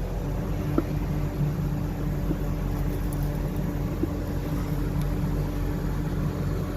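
Semi truck's diesel engine idling steadily, with a couple of light clicks over it.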